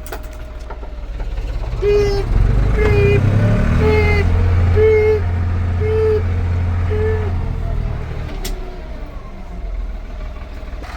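Ford 3930 tractor's three-cylinder diesel engine pulling in reverse. It comes up under load about two seconds in and eases back toward idle about eight seconds in. A short beep sounds about once a second, six times, while the tractor moves, and there is a single sharp click near the end.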